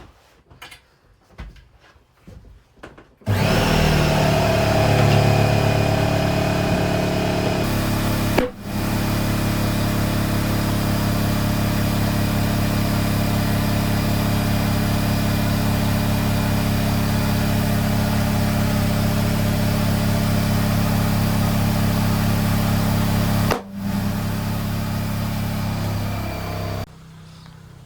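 Air compressor running steadily as the freshly fitted tyre is inflated, a loud motor hum with an airy hiss, starting about three seconds in and cutting out twice for a moment before stopping near the end.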